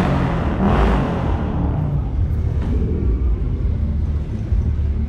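Vehicle engine running with a deep, continuous rumble, louder in about the first second and then settling to a steadier low drone.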